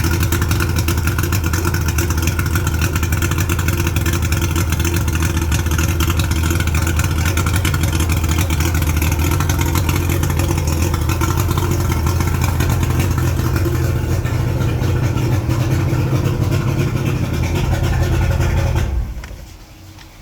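1989 Mariner 90 hp inline three-cylinder oil-injected two-stroke outboard running steadily, freshly fitted with a rebuilt fuel pump and a new inline fuel filter; it shuts off about nineteen seconds in.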